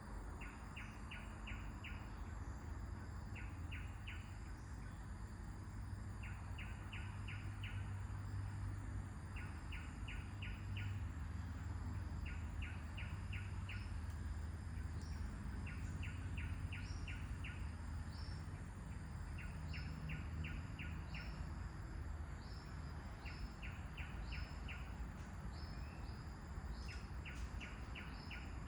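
Songbirds calling over steady wind. One bird repeats quick runs of about five chirps every couple of seconds, and another gives short high falling notes about once a second. A low rumble of wind and a faint thin high whine run underneath.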